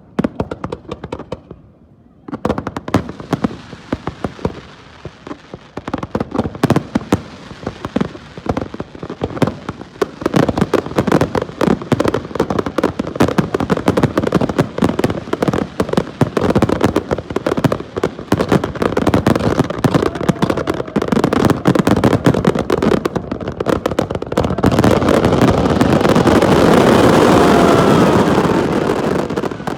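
Fireworks display: a rapid stream of bangs and crackles begins about two seconds in and thickens into a continuous barrage near the end, with a few faint whistles. It cuts off suddenly, as at the close of the display's finale.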